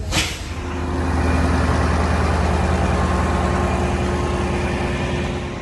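A large engine running steadily nearby, with a low even hum that swells about a second in and eases off near the end.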